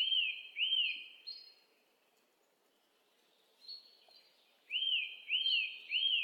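Bird chirping: two quick, arched chirps at the start, a pause with a few fainter higher notes, then three more chirps in quick succession near the end.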